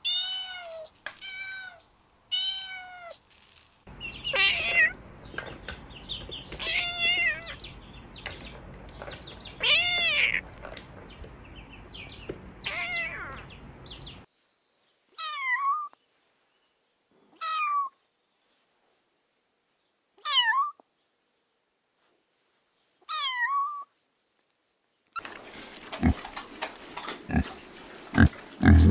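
Kittens meowing, many short mews in quick succession, then four lone mews spaced a few seconds apart. Near the end comes a stretch of rustling with a few dull thumps.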